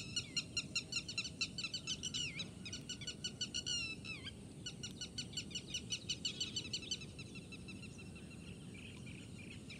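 A bird calling in a fast run of short chirps, about four or five a second, with a few downward-sliding notes. It breaks off briefly about four seconds in and stops around seven seconds, over faint outdoor background noise.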